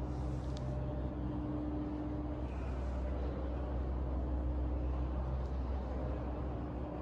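Steady low hum and rumble of background room noise, with a faint steady tone running through it.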